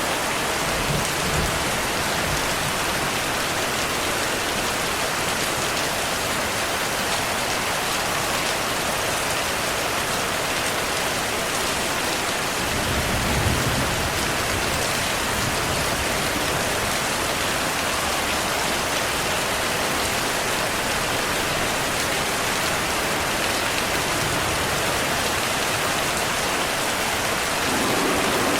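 Steady rain falling in an even hiss. About halfway through, a brief low rumble of distant thunder.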